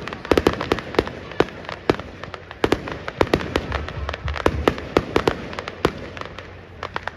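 Fireworks display: rapid, irregular sharp bangs and crackles, several a second, with a low rumble under them in the middle.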